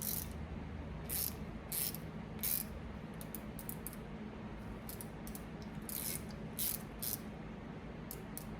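Mini bit ratchet clicking in short, irregular runs as it is worked back and forth, the pawl ticking over the teeth. A steady low hum sits underneath.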